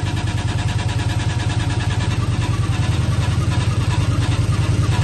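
Yamaha XV 1100 Virago's air-cooled V-twin engine running, with a noise the owner takes for the front cylinder misfiring.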